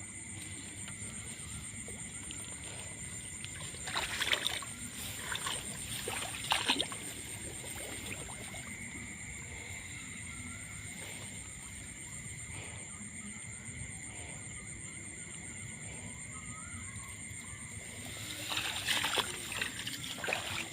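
Water splashing and sloshing in short flurries: once about four seconds in, again a couple of seconds later, and a longer spell near the end. Behind it runs a steady high-pitched drone.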